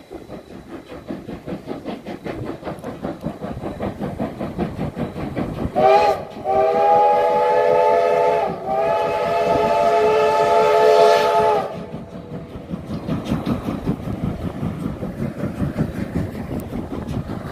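Steam locomotive CT273 working, with fast, even exhaust chuffs throughout. About six seconds in it sounds its steam whistle: a short toot, then a long blast of several tones lasting some five seconds, with a brief dip midway.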